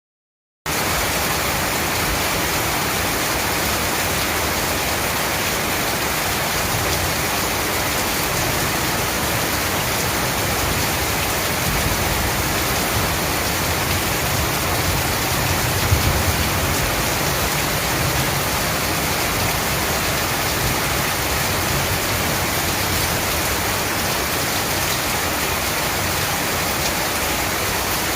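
Heavy rain falling steadily as a dense, even hiss, starting abruptly just after the opening. A brief low thud sounds about halfway through.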